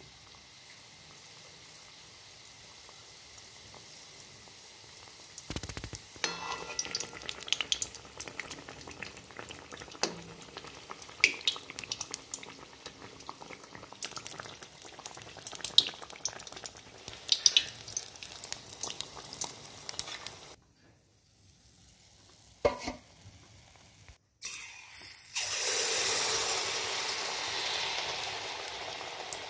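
Malpua batter deep-frying in hot sunflower oil: a steady fizz with scattered crackles and pops. Near the end, a fresh pour of batter into the oil sets off a much louder, denser sizzle.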